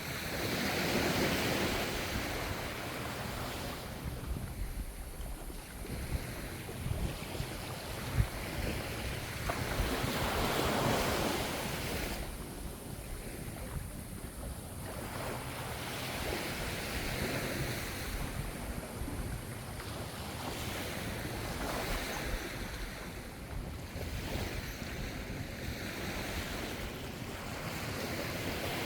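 Ocean waves breaking and washing in, swelling and fading every few seconds, with wind rumbling on the microphone.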